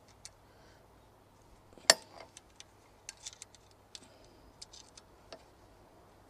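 Small metal parts of a motorcycle exhaust hanger being fitted by hand, a bolt, nut and bracket clicking and tapping together, with one sharp louder knock about two seconds in.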